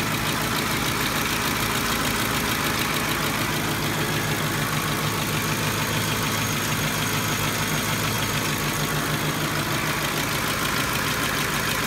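Ford 5.4L three-valve V8 idling steadily with a constant, fast, sharp tapping from the valvetrain, typical of a failed roller follower or lash adjuster.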